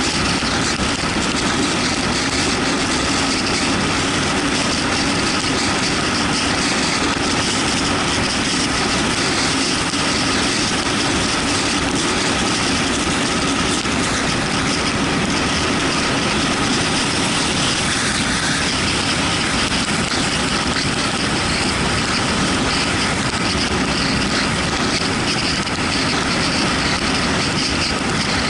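Yamaha MT-125 motorcycle under way in the rain: its single-cylinder engine runs steadily beneath a constant rush of wind and wet-road noise.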